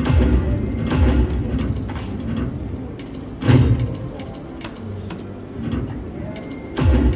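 Slot machine and casino floor noise, with low thuds about once a second early on, a louder one about halfway and another near the end.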